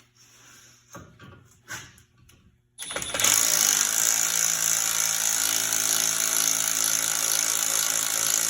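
A few faint handling clicks, then about three seconds in a power tool starts and runs steadily, driving a tool against the rear brake caliper piston to retract it. The piston barely moves under it.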